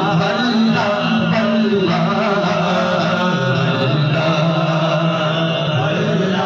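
Male voice singing an Urdu na'at, drawing out a long melodic passage without distinct words, its pitch gliding up and down.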